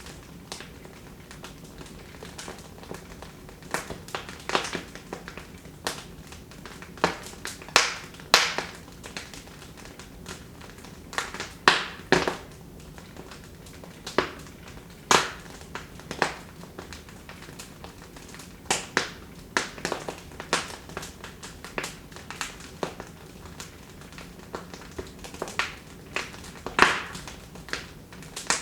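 Wood fire crackling in a fireplace: irregular sharp pops and snaps, a few loud ones every second or two, over a low steady hiss.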